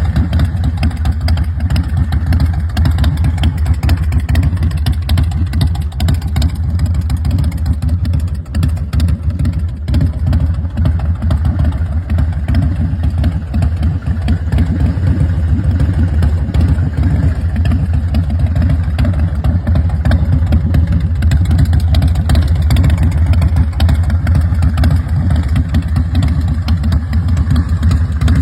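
Custom chopper's S&S 111 cubic-inch V-twin engine running steadily.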